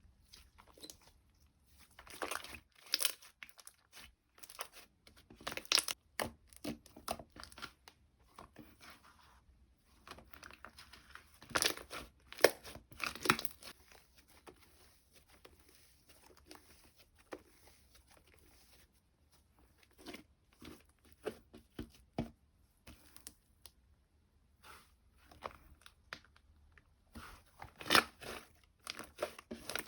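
Slime being squished, stretched and pressed by hand, giving irregular bursts of crackling, popping clicks with quieter pauses between them.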